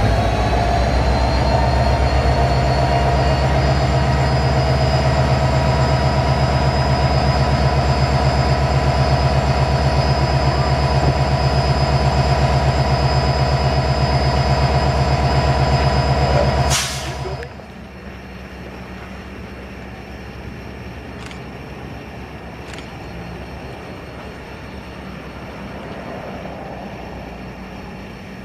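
Canadian Pacific diesel locomotive engine running steadily close by with a pulsing low drone, its pitch rising slightly at the start. About two-thirds of the way through it cuts off suddenly to a much quieter steady rumble.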